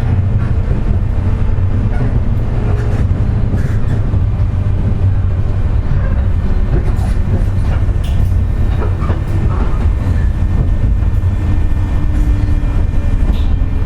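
Running noise inside a JR West 201 series chopper-controlled motor car under way: a steady rumble of wheels on rail with scattered clicks from the track. Steady tones run through it, in keeping with the 'jet sound' that the uploader puts down to electrically pitted bearings.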